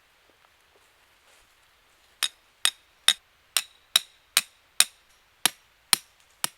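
Hammer blows: about ten sharp strikes, roughly two a second, beginning about two seconds in, some with a short ringing tail.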